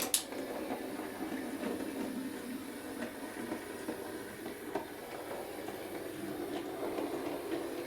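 Bachmann Class 03 model shunter running slowly on model railway track: a steady whirr of its small electric motor and wheels rolling on the rails, with a few faint clicks.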